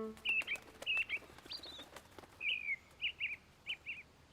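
Small songbird chirping: a run of short, quick chirps at irregular intervals, some of them sliding down in pitch. A held music chord fades out at the very start.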